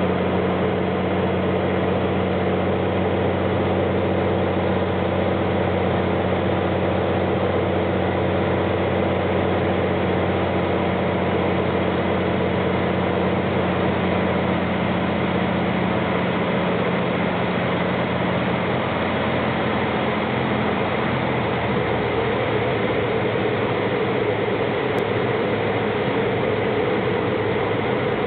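Small airplane's engine and propeller droning steadily, heard from inside the cabin. The low engine note changes about two-thirds of the way through.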